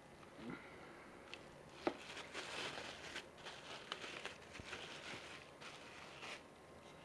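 Packaging being handled by hand: a sharp click about two seconds in, then a few seconds of crinkling and rustling as a tweeter is unwrapped.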